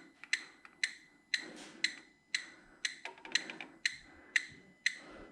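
Electronic gas leak detector ticking steadily, about two short beeping clicks a second, as it is run over gas pipe joints.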